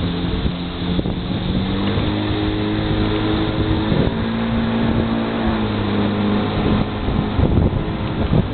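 Motorboat engine running steadily, its note stepping up and down a little a few times, with rushing wind and water noise.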